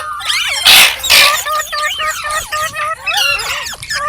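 Indian ringneck parakeet chattering in quick whistled and warbling notes, with two loud harsh screeches about a second in.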